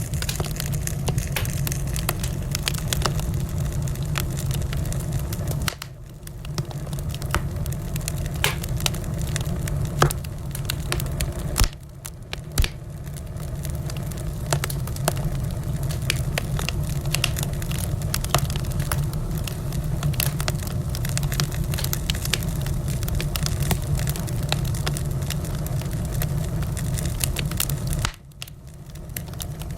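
Wood fire crackling in a fireplace: dense small pops and snaps over a steady low rumble, with a couple of louder pops about a third of the way in and brief dips in loudness a few times.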